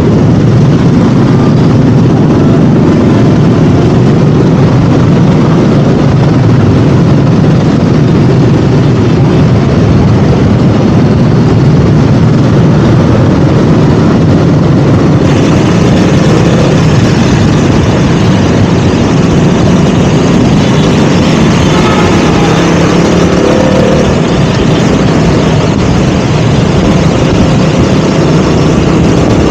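KTM Duke 200's single-cylinder four-stroke engine running steadily while riding, with a rise in hiss about halfway through.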